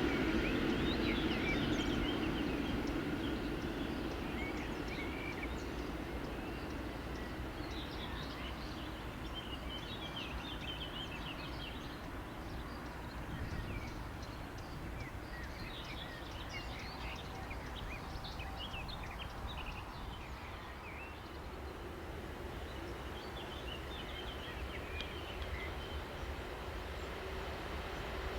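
Small birds singing in short chirping phrases over a steady low background rumble. A train that has just passed fades away during the first few seconds.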